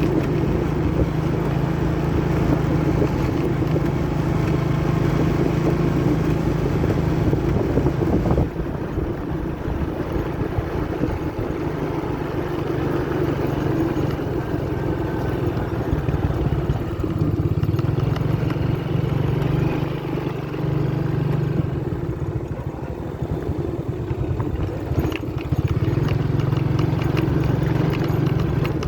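Small motorcycle engine running steadily while riding over a rough track, its note easing off about eight seconds in and picking up again near the end.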